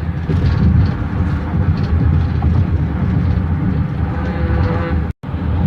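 Steady low rumble of a car driving along a highway: tyre and road noise with the engine underneath. The sound cuts out for an instant near the end.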